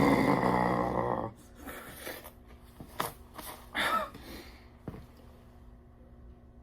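A man's loud strained groan and gasping breath after chugging ice-cold carbonated water, ending about a second in. It is followed by quieter, ragged breathing and a few small clicks.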